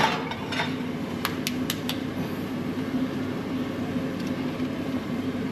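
Steady hum of a running kitchen oven's fan, with a few light clicks about a second and a half in as the cookie tray goes in.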